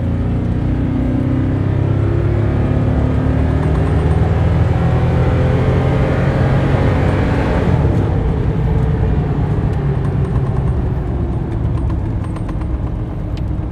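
Stock naturally aspirated Toyota Tundra V8 at full throttle through a long, slow acceleration run. The steady engine note pulls for over ten seconds, since the heavy lifted truck makes only its stock 380 horsepower.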